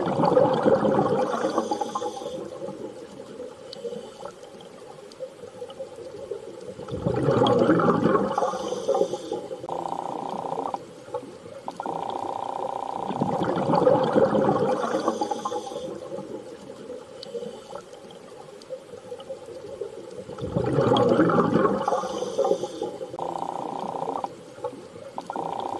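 Underwater sea ambience: slow surges of rushing water about every seven seconds, with short, steady droning tones between them, the whole pattern repeating as a loop.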